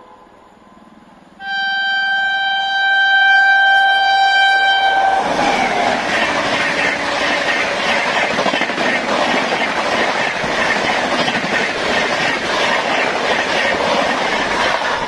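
WAP-7 electric locomotive's horn sounding one long blast of about four seconds, its pitch dropping slightly as the locomotive passes. It is followed by the double-decker coaches rushing past at high speed, with rapid, even wheel clatter on the rails.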